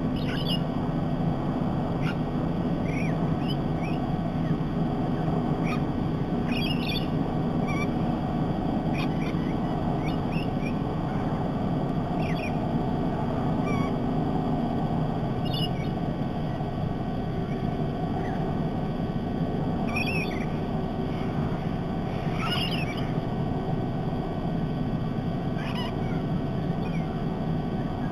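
Short, scattered bird calls, sharp chirps every few seconds, over a steady low outdoor rumble.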